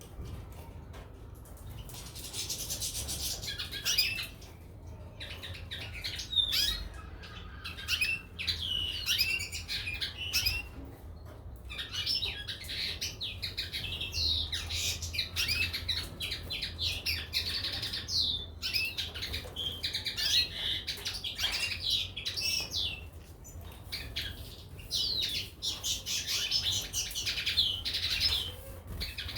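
Goldfinches and canaries chirping and twittering, with many quick rising and falling notes overlapping almost without a break.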